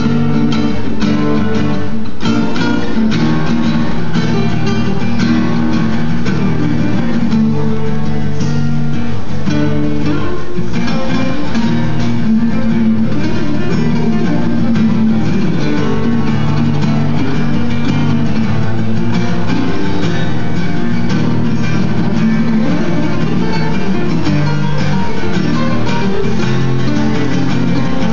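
Guitar music: an improvised guitar solo with quick plucked and strummed notes, played at a steady loudness.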